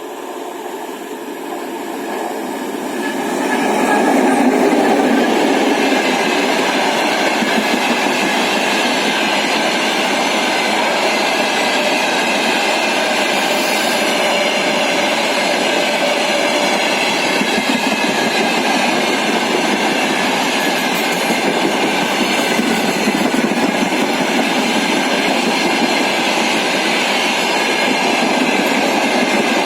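Freight train hauled by a 2M62M twin-section diesel locomotive passing. It grows louder over the first four seconds, then settles into a steady rolling rush of wagons with several high, steady ringing tones over it.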